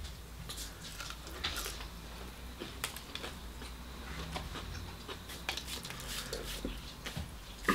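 Mouth sounds of a person eating a fried chicken wing: irregular short chewing clicks and smacks, with a sharper click near the end.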